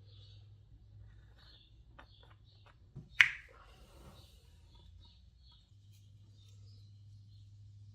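A few light ticks, then one sharp snap about three seconds in, over faint bird chirps.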